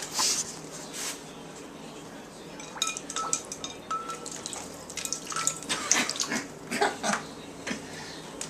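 A dog splashing and nosing about in her water bowl with ice cubes in it, the ice knocking against the bowl in irregular clinks, several with a short ring.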